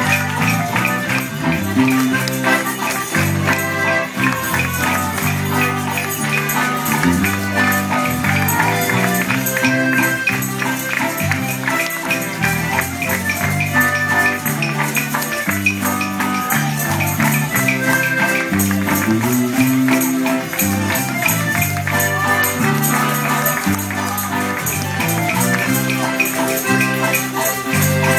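Live Mexican popular music medley played on guitars and accordion, with tambourines jingling in a steady rhythm over a stepping bass line.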